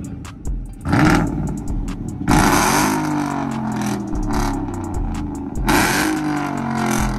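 Pickup truck engine revved hard three times, about a second in, a little after two seconds and near six seconds, its pitch falling back after each rev.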